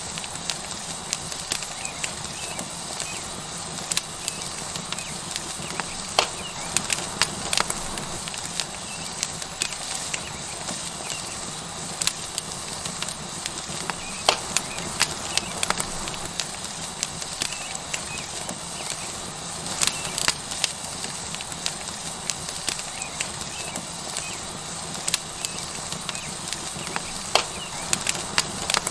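Wood fire crackling with frequent sharp, irregular pops over a steady sizzle of a tomahawk steak searing on a hot rock.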